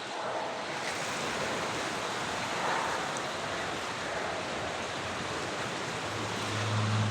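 Steady rushing noise of wind on the microphone. Near the end a low, steady hum joins in.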